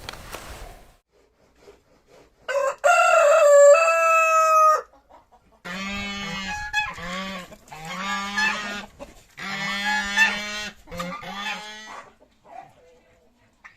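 A rooster crows once, a long loud call about three seconds in, followed by a string of shorter, lower-pitched clucking calls from chickens.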